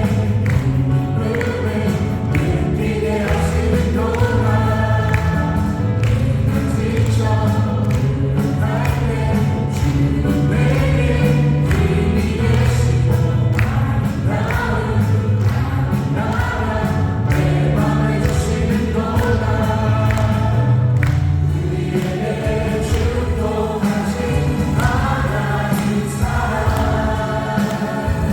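Church worship team singing a praise song, several voices together, backed by keyboards, drums and acoustic guitar.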